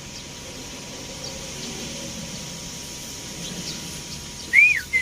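Faint, scattered chirping of a flock of sparrows over a steady hiss. Near the end a loud whistle starts: one rising-and-falling note, then a quick run of short falling notes, about six a second.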